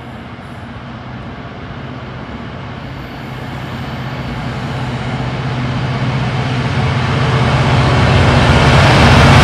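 Direct Rail Services Class 66 diesel-electric locomotive, its EMD two-stroke V12 engine running with a steady low drone, approaching and growing steadily louder as it hauls a container freight train through the station.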